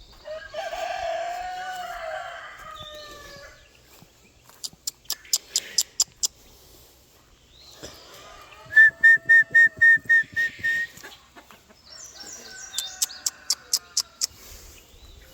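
Chickens calling: a rooster crows at the start, then come bursts of sharp clicks, and a little past halfway a bird gives a fast run of about eight loud, high-pitched calls, the loudest sound here.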